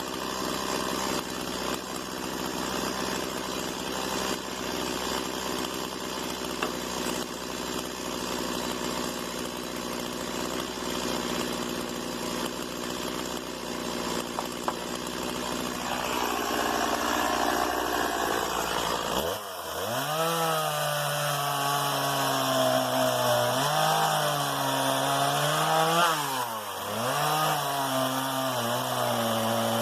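Stihl MS 170 two-stroke chainsaw running and working wood. After about two-thirds of the way through the sound changes to a clear, steady engine note whose pitch dips and recovers several times.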